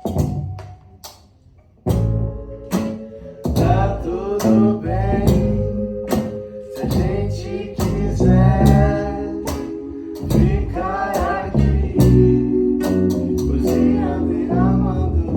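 Live acoustic guitar strummed and plucked, with a voice singing over it. The guitar drops to a quiet pause, comes back in strongly about two seconds in, and the singing enters shortly after.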